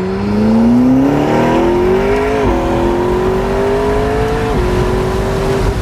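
McLaren 650S Can-Am's twin-turbo V8 under hard acceleration: the engine note climbs, drops sharply at an upshift about two and a half seconds in, climbs again and drops at a second upshift near the end.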